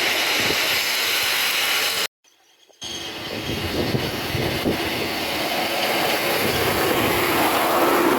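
Miniature railway train running on the track, a steady noisy rumble with faint wheel clicks. It cuts out abruptly for under a second about two seconds in, then resumes.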